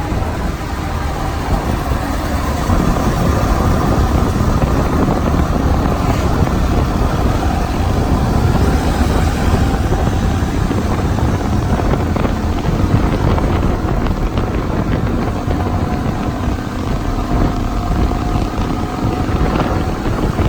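Motorcycle running at steady road speed, its engine drone buried under a loud wind rush on the microphone.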